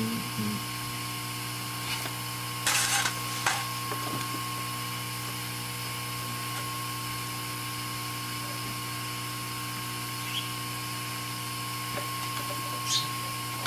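A steady electrical hum from bench equipment. A few short scraping and clicking noises from tool work come about three seconds in and again near the end.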